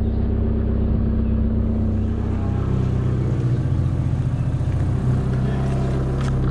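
Hyundai Excel's four-cylinder engine running steadily, its note rising slightly about two and a half seconds in as the revs pick up.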